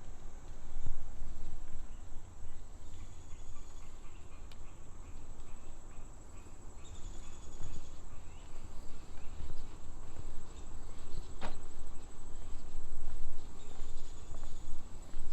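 Insects trilling in a steady high buzz, with a few short higher chirps over an uneven low rumble and one sharp click about eleven seconds in.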